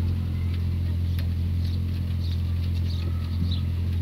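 A loud, steady low hum runs through, with faint, short high chirps scattered over it.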